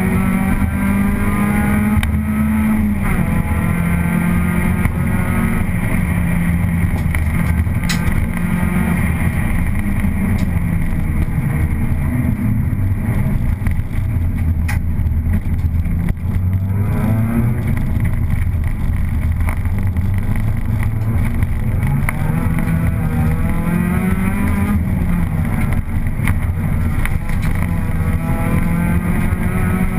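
Opel Astra GSi engine heard from inside the cabin, pulling hard with revs climbing and dropping repeatedly as it changes gear and slows for turns, over constant road noise.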